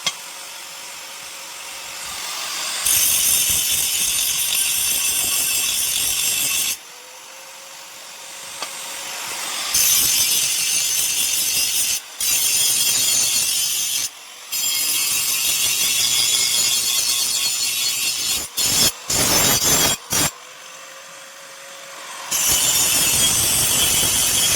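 Power grinder working a steel plate in repeated passes of a few seconds each, its hiss loud while the tool is in contact. Between passes it drops to the quieter steady hum of the free-running motor. A quick run of short on-off touches comes near the end of the third quarter.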